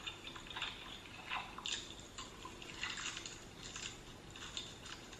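Close-miked chewing of crunchy fried shrimp: irregular short crunches and wet mouth sounds, several a second.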